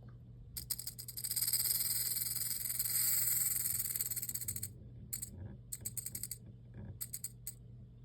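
Western diamondback rattlesnake shaking its rattle: a continuous high buzz of about four seconds, starting half a second in, then three shorter bursts of rattling. It is the snake's defensive warning.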